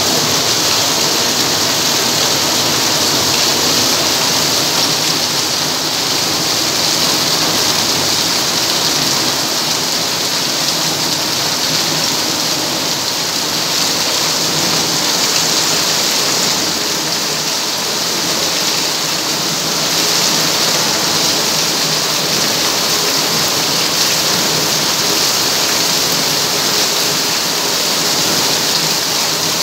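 Heavy rain pouring down steadily, splashing hard onto wet concrete and puddled ground.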